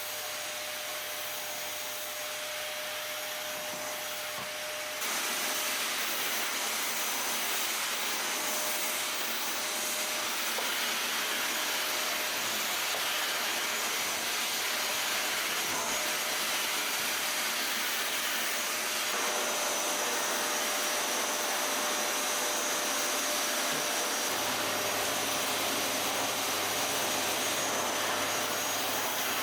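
Vacuum cleaner running steadily with a whining motor hiss, getting louder about five seconds in.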